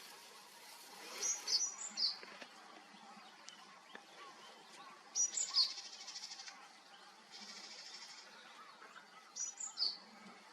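A Japanese tit singing: three short, high phrases of sweeping notes, about four seconds apart. A fainter, even buzzy rattle comes twice in the middle.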